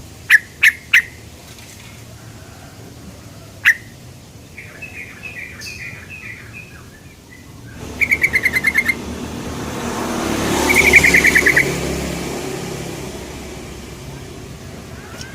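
Yellow-vented bulbul (trucukan) calling: a few sharp single "cuk" notes, then a run of softer notes and two quick chattering trills. A passing vehicle swells and fades behind the calls around the middle.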